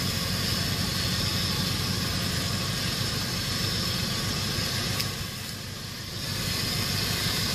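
Off-road 4x4's engine idling steadily, dipping briefly in loudness about five seconds in.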